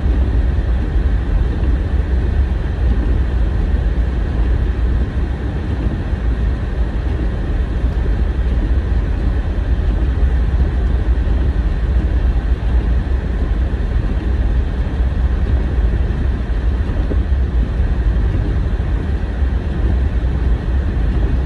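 A car driving: a steady, low rumble of engine and tyres on the road.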